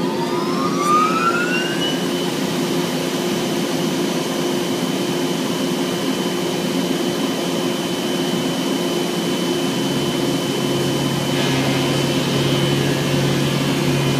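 Vacuum motor running, its whine rising as it spins up over the first two seconds and then holding steady at a high pitch over a constant hum. A deeper hum joins about ten seconds in.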